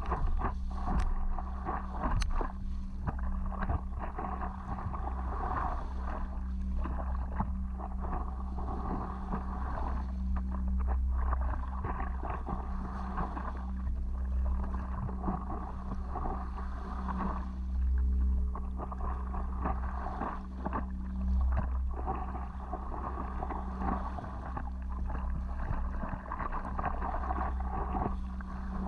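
Water splashing and lapping as a stand-up paddleboard is paddled, with irregular small splashes and knocks, over a heavy low rumble of wind on the microphone and a faint steady low hum.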